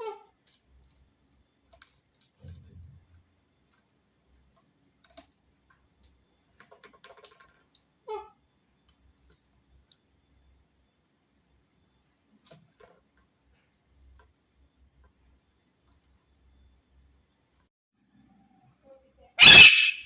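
A parrot gives one loud, short screech near the end. Before it there are only a few faint clicks and soft chirps over a faint steady high whine.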